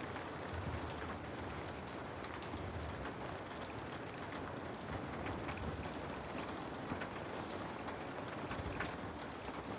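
Steady rain falling, an even hiss with scattered individual drops ticking and a low rumble beneath.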